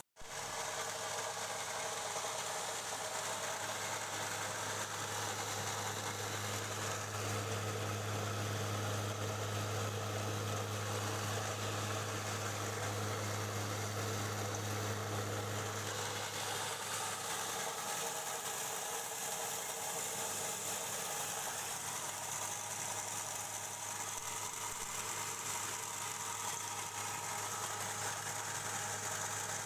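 Electric-motor-driven mini rice huller running steadily: a strong low mains-frequency hum under a dense whirring and rushing noise from the hulling mill. The hum eases somewhat about halfway through while the machine keeps running.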